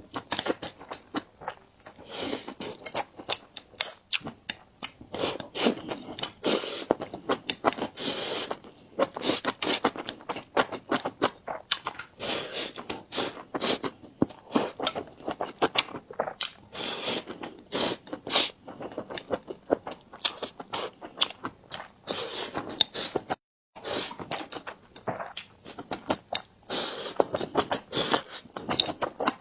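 Close-miked eating sounds: a person biting and chewing food, with many sharp, irregular wet mouth clicks and smacks. About two-thirds of the way through, the sound drops out to dead silence for a moment, then the chewing resumes.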